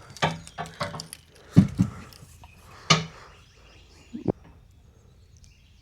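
A scattered run of knocks and clicks with a couple of low thumps, the loudest about one and a half seconds in, from tackle and a caught fish being handled in a boat.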